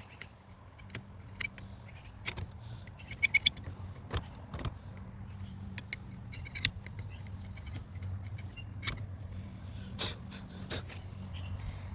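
Hand tools and metal parts clicking, clinking and scraping during disassembly, a cluster of sharp clinks about three seconds in, over a steady low hum.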